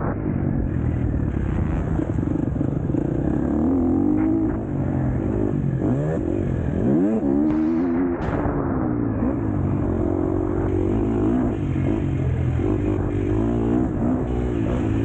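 KTM 250 SX-F four-stroke motocross bike engine under race riding, revs rising and falling continuously as it is throttled. About six seconds in the revs drop sharply, then climb quickly again.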